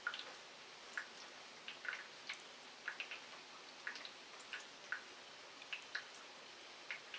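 Rain falling, heard as single drops dripping and tapping close by, about two a second at uneven intervals, over a faint steady hiss.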